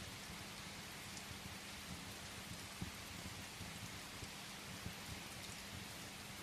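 Steady rain tapping against a window, an even hiss over a low rumble, with a few faint pops and clicks from a crackling wood fire scattered through.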